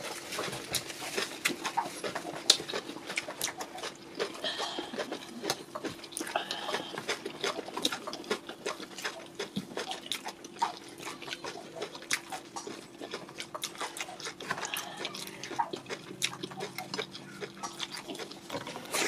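Mouth sounds of eating egusi soup with swallow by hand: chewing and wet lip-smacking, a stream of small sticky clicks, over a faint steady hum.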